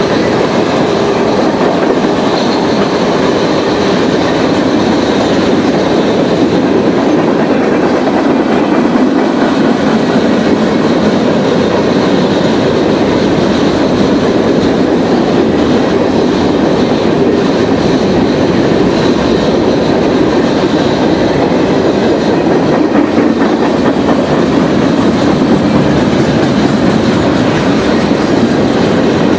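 Freight train rolling past, a loud, steady noise of cars and wheels on the rails that holds even throughout.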